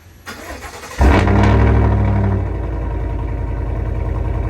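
2020 Chevy Silverado Trail Boss's V8, its exhaust tips removed, starting: a brief crank, then the engine catches about a second in with a loud flare in revs that settles after a second or so into a steady idle.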